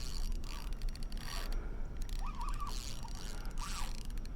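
Fishing reel being cranked in short spells while a hooked catfish is played, with a few faint chirps in the second half.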